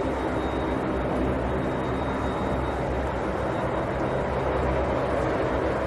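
Aircraft engines running with a steady drone that holds at one level, with a faint high whine above it.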